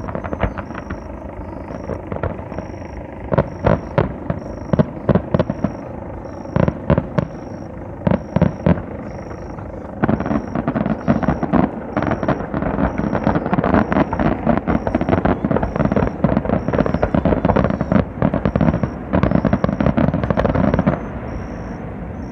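Fireworks display: aerial shells bursting in a series of separate bangs, then about ten seconds in a dense barrage of overlapping bangs and crackle that thins out shortly before the end.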